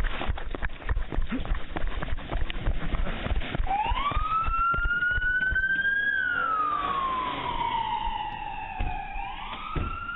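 Knocking and rustling for the first few seconds, then a police car siren starts about four seconds in, winding up and sweeping slowly up and down in a wail.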